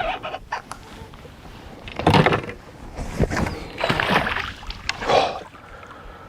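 Irregular bursts of splashing and knocking at a fishing kayak as a bass is hauled from the water and landed.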